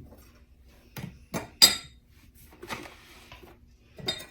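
Kitchenware being handled: several sharp clinks and knocks of dishes, utensils and pots, the loudest about a second and a half in with a brief ring.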